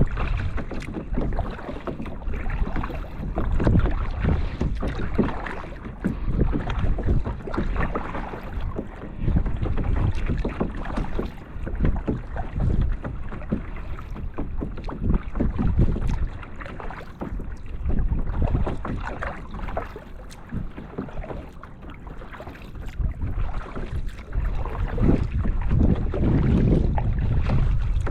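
Kayak paddle strokes dipping and splashing in calm water, with wind buffeting the microphone in a low rumble that swells and eases.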